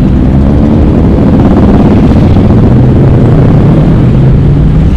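Motorcycle engine running loud and close under way, its pitch rising over the second half as it speeds up, over heavy low rumble.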